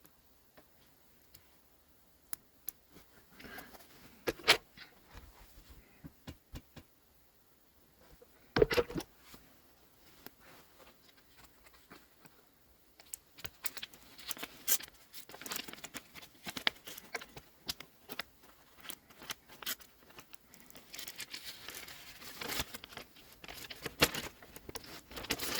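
Handling of fabric and craft materials: scattered light taps and clicks, with rustling and scraping that grows busier in the second half.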